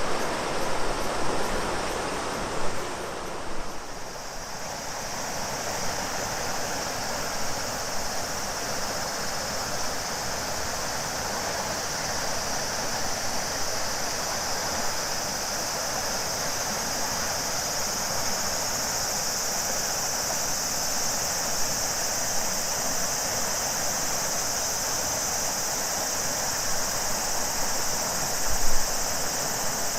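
Steady rush of a flowing river, joined about four seconds in by a chorus of cicadas, a continuous high buzz that holds over the water.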